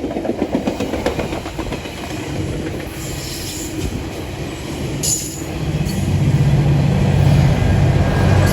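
GO Transit commuter train passing close by, its wheels clacking over the rails. From about six seconds in, a steady low diesel locomotive engine drone grows louder.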